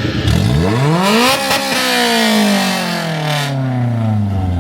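A car engine revs up sharply in about a second, then its pitch falls away slowly over about three seconds, with loud exhaust noise through the rev.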